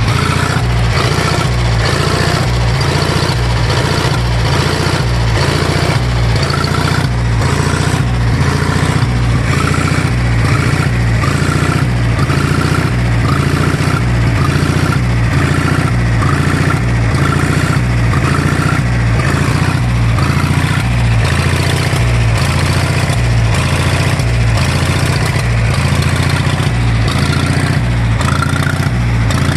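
1964 John Deere 1010 tractor engine running steadily at idle with an even, pulsing low beat. It has just been cold-started on starting fluid.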